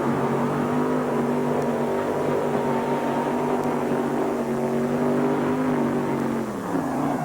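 A mini modified pulling tractor's engine runs flat out under load down the track, holding a steady high pitch. About six and a half seconds in, the pitch falls away as the engine winds down at the end of the pull.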